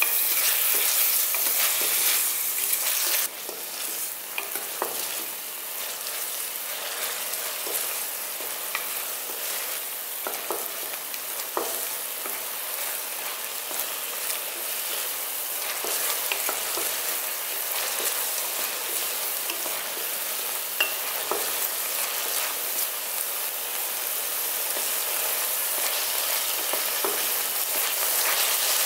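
Grated onion and sugar sizzling as they fry in a stainless steel pan, with a wooden spatula stirring and scraping against the pan now and then. The sizzle drops noticeably about three seconds in, then holds steady.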